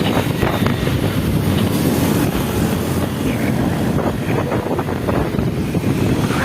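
Heavy wind buffeting the microphone of a moving vehicle, a steady low rumble with wind rush over it.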